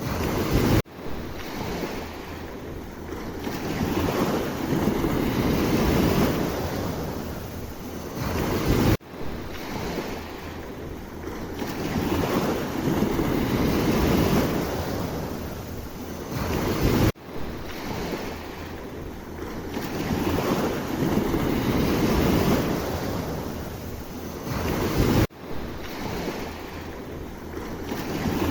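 Sea waves washing ashore in slow swells that rise and ebb over several seconds, with wind on the microphone. The sound breaks off abruptly and restarts about every eight seconds, like a short recording looped.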